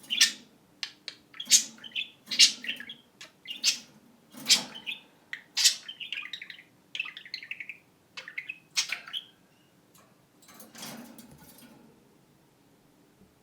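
Pet budgerigars chirping in a run of sharp calls, with a warbling trill partway through that mimics a phone ringing. The calls stop about nine seconds in.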